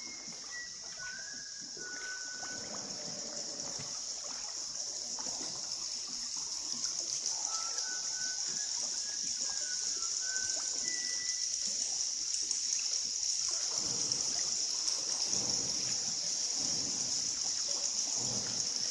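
River water splashing and trickling around a paddled boat, the splashes growing louder in the last few seconds. A steady high-pitched hiss runs throughout, with a few short whistled chirps in the first half.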